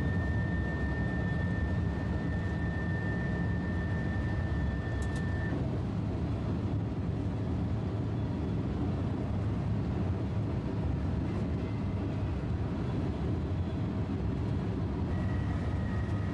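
Steady rumble and rushing noise inside the driver's cab of a French high-speed train running at speed. A thin, steady high whine sounds over it, stops about five seconds in and returns near the end.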